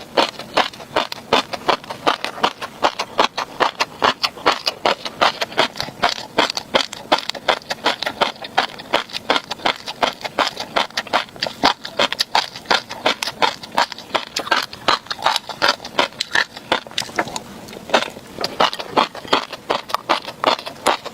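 Close-miked chewing of tobiko (flying fish roe), the tiny eggs popping and crunching in rapid, dense clicks.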